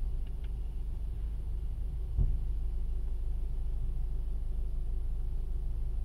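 Car engine idling at a standstill, a steady low rumble heard inside the cabin, with one short low thump about two seconds in.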